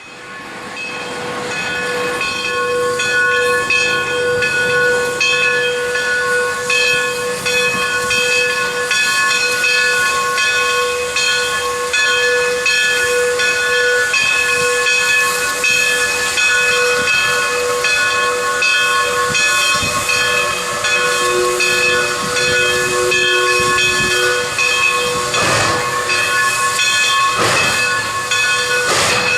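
Southern Pacific 4-6-2 steam locomotive No. 2472 venting steam: a loud, steady hiss with several ringing tones in it. A few short, louder gusts of steam come near the end.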